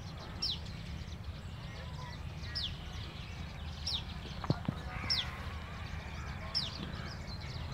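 A bird repeats a short, high call that slides down in pitch, about six times at intervals of a second or so, over a steady low rumble.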